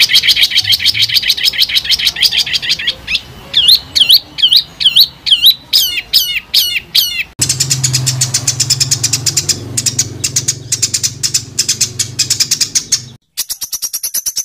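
Edited recording of songbird song used for training competition birds, made of rapid, harsh bursts: a dense high trill for about three seconds, then a quickening run of sweeping whistled notes. About halfway through it cuts to a fast series of sharp chirps over a low hum, breaks off briefly near the end, then resumes.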